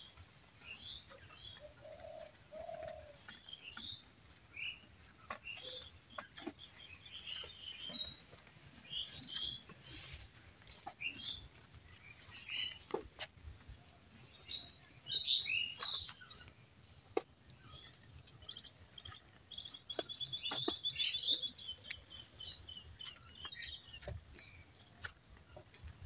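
Birds chirping and twittering, many short high calls scattered throughout, with a rapid trill of repeated notes about twenty seconds in and two short lower calls near the start. Faint clicks and taps are scattered among them.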